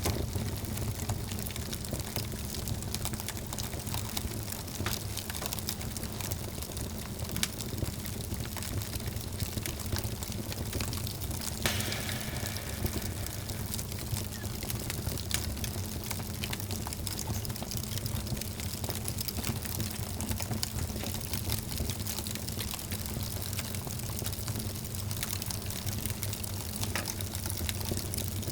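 Wood fire burning in a fireplace: a steady crackle of many small pops and snaps over a low rumble, with a brief hiss about twelve seconds in.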